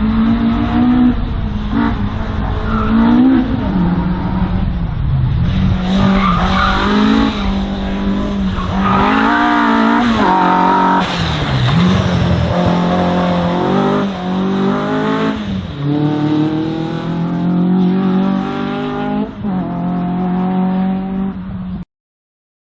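Race car engine revving hard through a slalom run: its pitch climbs and drops again and again as the driver accelerates, shifts and lifts between cones, with tyres squealing. The sound stops abruptly near the end.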